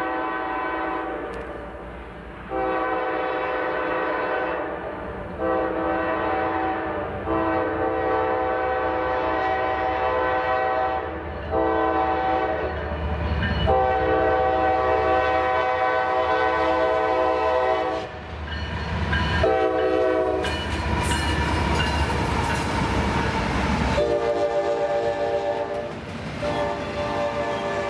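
Railroad locomotive's multi-note air horn sounding a series of blasts of differing lengths, some long and some short, separated by brief gaps. Beneath it runs the rumble and rail noise of the train, loudest in the middle while the horn briefly falls silent.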